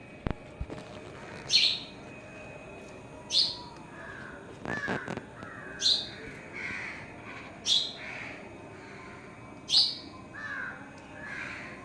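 Birds calling, crows among them cawing: a loud, sharp, high call repeats about every two seconds, five times, with softer, lower caws in between. Two brief knocks sound right at the start.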